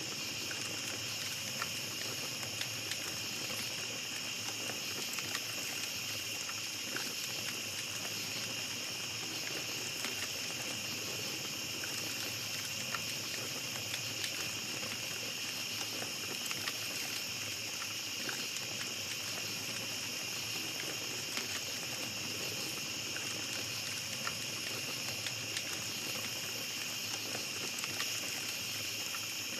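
Small campfire crackling with scattered faint pops and ticks, over a steady high-pitched chorus of night insects.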